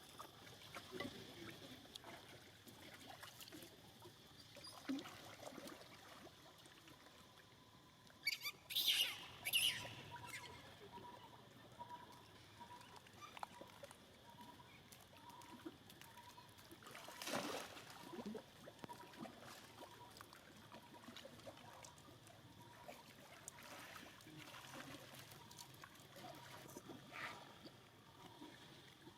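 Faint trickling and splashing of water, with a few louder sudden splashing noises about eight to ten seconds in and again about seventeen seconds in.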